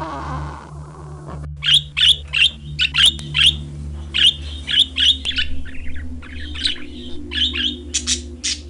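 A bird calling in a quick series of short, sharp chirps, about two or three a second, with a couple of brief pauses. The chirps start about a second and a half in, after a wavering sound fades out.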